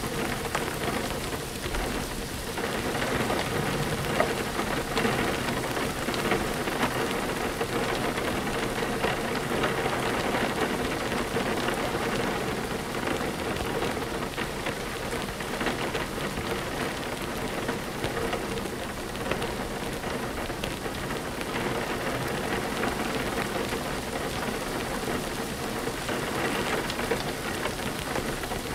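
Steady rain falling, a dense even patter, with low rumbles of thunder.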